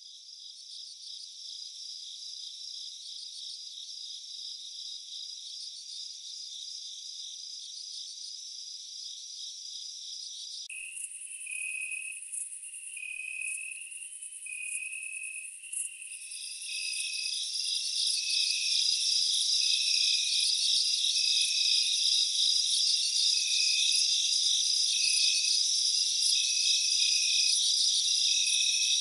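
A chorus of crickets and other insects: high, fast, pulsing chirps and trills. The mix changes abruptly about eleven seconds in, when a lower repeated chirp joins, and the chorus grows louder a few seconds later.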